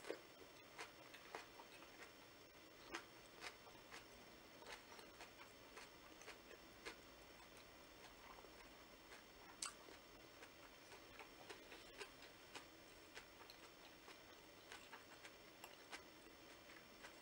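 Faint close-up chewing of a Vietnamese fresh rice-paper spring roll: soft mouth sounds broken by small irregular clicks, about one or two a second.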